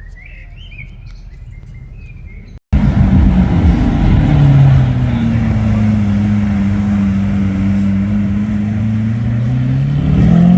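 Faint bird chirps at first, then a sudden cut to a Lamborghini Aventador's V12 running loud and steady at low revs. Its pitch climbs near the end as the revs rise.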